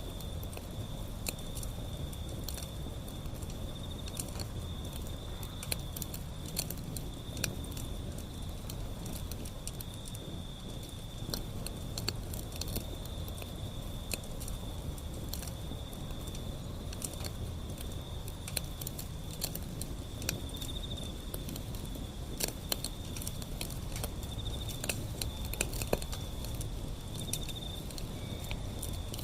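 Wood fire burning, crackling with many irregular sharp pops over a low rumble of the flames. A steady high-pitched insect trill runs behind it.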